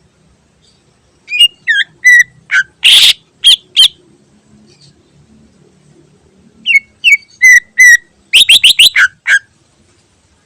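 Cucak ijo (green leafbird) singing: two bursts of loud, short whistled notes, many sliding down in pitch, the first with one harsher rasping note, the second ending in a fast run of five or six notes.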